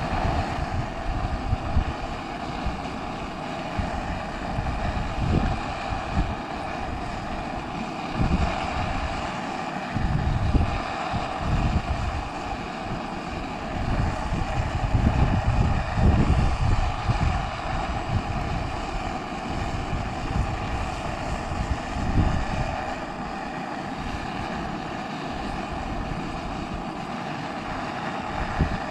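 Gas stove burner running with a steady roaring hiss, while gusts of wind buffet the microphone every few seconds.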